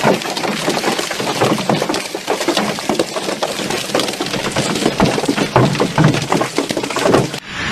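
Storm wind with a dense run of irregular knocks and clatters. Near the end it cuts off sharply into a steady hiss.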